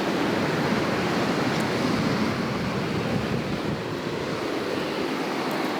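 Ocean surf: a steady rush of waves, with wind on the microphone.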